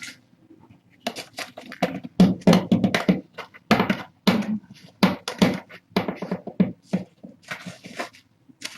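Irregular run of short scraping, crunching and rustling strokes from close handling, starting about a second in.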